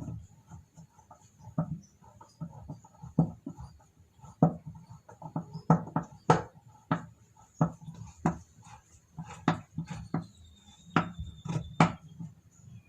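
Irregular knocks and clicks of hand work on plastic washing-machine parts, pieces being handled and tapped together, most of them a second or less apart.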